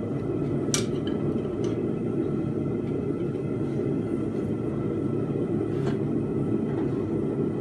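Blacksmith's forge running with a steady low roar, with a light metallic click about a second in.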